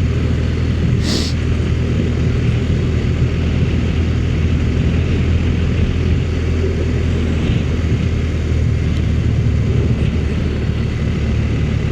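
Motorcycle engine running at a steady cruising speed, a constant low drone over wind and road noise.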